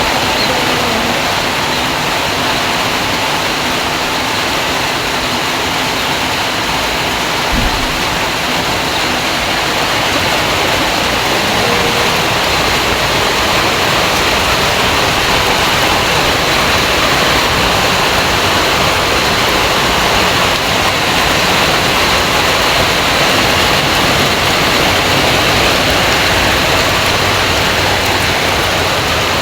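Heavy rain falling steadily, a loud, even hiss with no break, and a single low knock about seven and a half seconds in.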